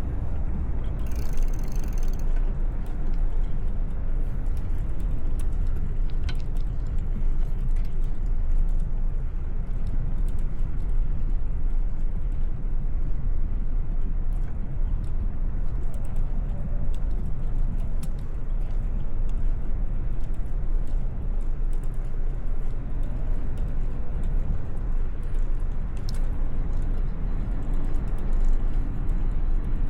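Steady low rumble of wind and road noise from a moving bicycle ride, with faint scattered clicks and a short hiss about a second in.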